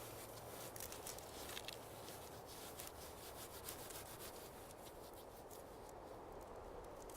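Faint rustling and rubbing of hands handling first-aid wipes and a dressing on a cut finger, with small scratchy crackles that thin out after about five seconds.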